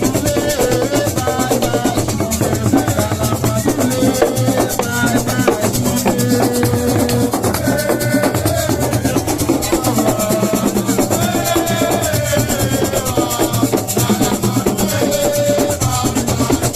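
Live Senegalese assiko music: steady, dense hand percussion with a shaker and drums under a wavering melody line.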